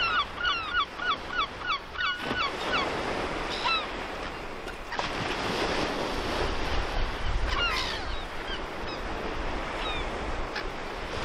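A bird calling rapidly, about four sharp calls a second, stopping about three seconds in, then a few single calls, over a steady rush of surf and wind.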